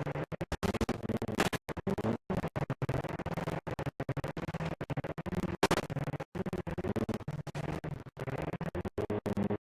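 Vehicle engine running steadily, the sound chopped by many brief dropouts throughout.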